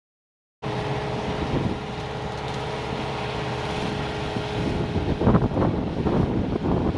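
CAT 259D compact track loader running with its hydraulic brush cutter attachment: a steady engine and machine drone with a constant whine. It cuts in suddenly about half a second in and turns rougher and surging, with irregular louder bursts, from about five seconds in.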